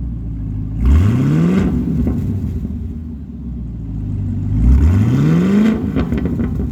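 2018 Camaro ZL1's supercharged 6.2-litre LT4 V8 through an aFe cat-back exhaust, idling and revved twice, the pitch climbing each time, then dropping back to idle.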